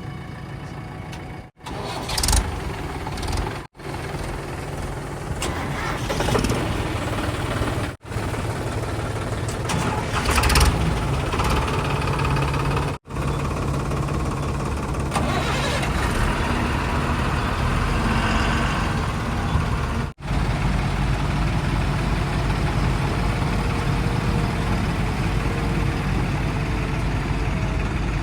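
Diesel engines of heavy vehicles running and idling in a string of short clips cut together, each cut a sudden brief drop-out, with a few short louder noises over the engine sound.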